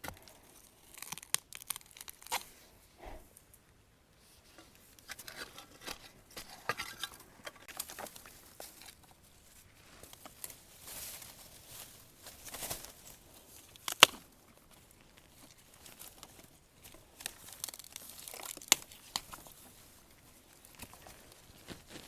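Dry bamboo leaves and undergrowth rustling and crackling irregularly as someone works through a bamboo clump, with scattered small snaps and one loud, sharp snap about two-thirds of the way through.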